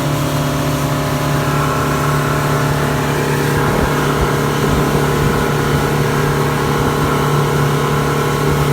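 Motorboat engine running steadily under way, a constant drone with a steady hiss over it.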